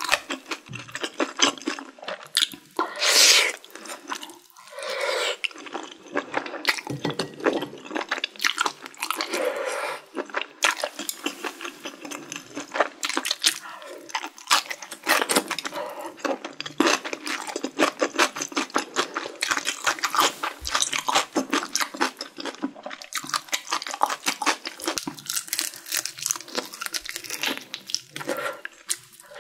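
Close-miked chewing of spicy stir-fried seafood and vegetables: a steady run of wet smacking and crunching mouth sounds, with a louder hissing burst about three seconds in.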